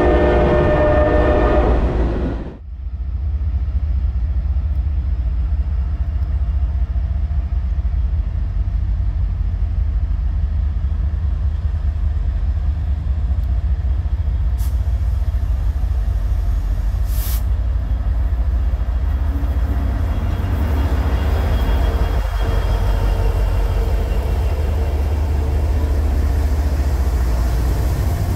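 A diesel locomotive's multi-chime air horn sounds and cuts off sharply about two and a half seconds in. After it comes the steady heavy low rumble of the freight train's diesel locomotives, led by a GE C40-8.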